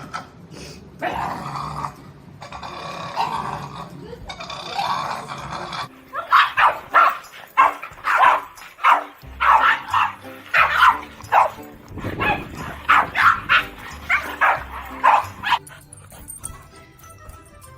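Dog barking over and over in a rapid run, about two to three barks a second, over background music.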